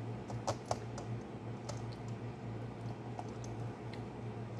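Close-up eating sounds: a person biting and chewing small dark fruits, with two sharp clicks about half a second in and a few softer clicks later, over a steady low hum.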